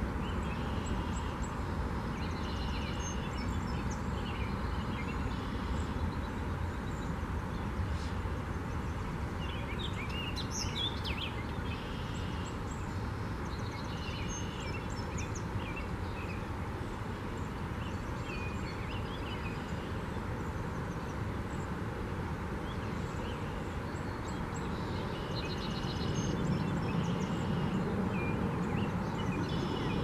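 Songbirds chirping and singing in short, high phrases every few seconds over a steady low background rumble.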